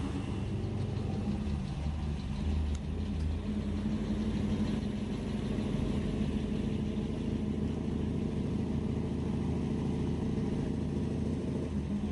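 A car engine running at a steady idle.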